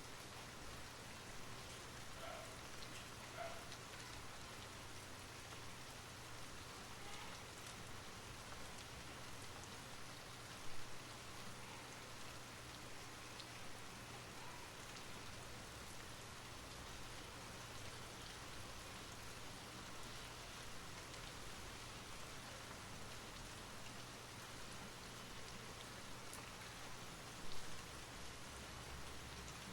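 Steady rain falling, an even patter of drops on surfaces, with two brief louder taps, about a third of the way in and near the end.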